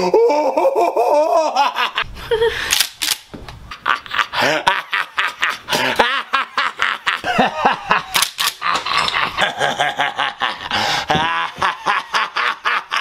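People laughing hard, breaking into long runs of short, rapid bursts of laughter.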